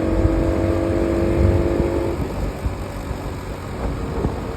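Bajaj Pulsar NS200 single-cylinder motorcycle engine running at a steady note while riding, with low wind rumble on the microphone; about two seconds in the engine note fades, leaving wind and road noise as the bike rolls on.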